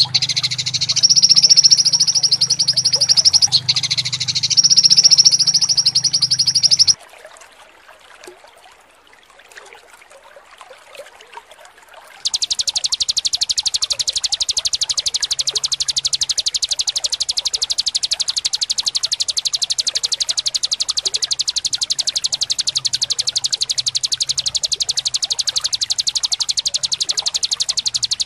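Recorded songbird calls of the kind used to train cage birds: a dense run of fast, harsh, high-pitched trills over a low hum. The calls break off about seven seconds in for a quiet gap of about five seconds, then return as one long, very even, rapid trill.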